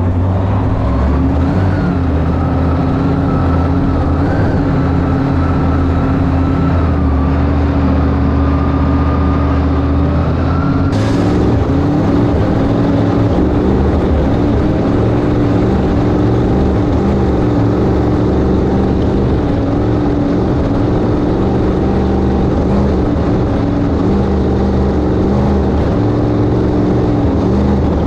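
1971 Sanger flat-bottom V-drive boat's inboard engine running steadily at cruise. About eleven seconds in there is a brief sharp noise, after which the engine note wavers slightly up and down.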